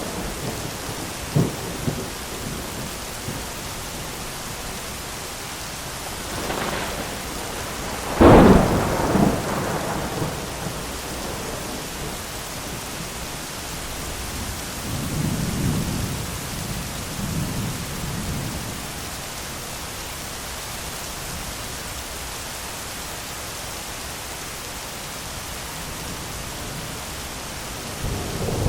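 Steady heavy rain with thunder: a sharp, loud lightning crack about eight seconds in that rumbles away over a couple of seconds, and lower rolling rumbles later on.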